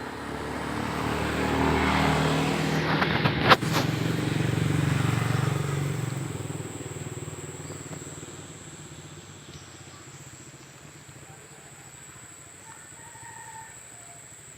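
A motor vehicle's engine passing by: it grows louder over the first couple of seconds and fades away by about eight seconds in. A sharp click comes about three and a half seconds in.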